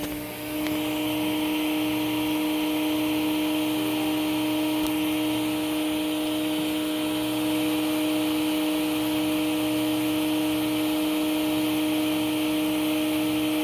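Hoover Celebrity 'Quiet Series' canister vacuum running on low speed. It finishes spinning up and settles into a steady hum with an even rush of air.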